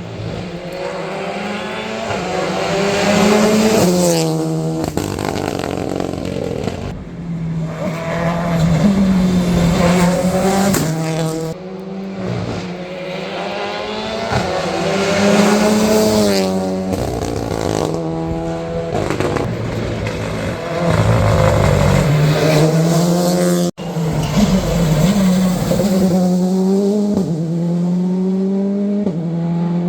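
Rally cars accelerating out of a corner, engines revving up and shifting through the gears again and again, the pitch climbing and dropping at each change. The sound breaks off suddenly about three quarters of the way through and picks up again with another car.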